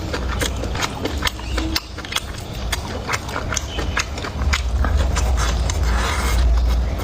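Close-miked chewing and mouth sounds of someone eating: a quick, irregular run of wet clicks and smacks, with a low rumble underneath that grows stronger about halfway through.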